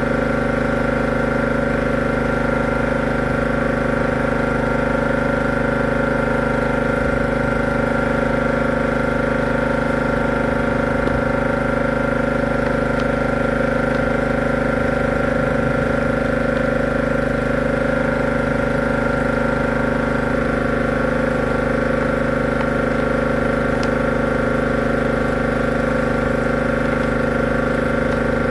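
A motor-driven machine running steadily, a constant hum made of several fixed tones that holds unchanged throughout.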